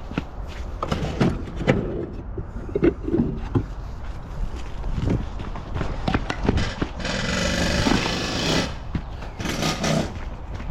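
Irregular knocking and clinking of metal parts being handled, with a burst of hissing lasting about a second and a half near the end.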